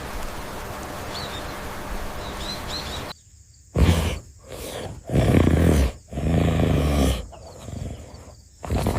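Faint bird chirps over a steady outdoor background. After an abrupt cut about three seconds in, a large animal gives a series of loud, deep calls, four in a row, the last two each lasting close to a second.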